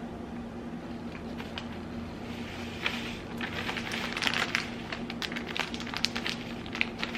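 Plastic pouch of dry pancake mix crinkling and rustling as the mix is poured out into a bowl, with a rapid run of crackles from about two and a half seconds in. A steady low hum sits under it throughout.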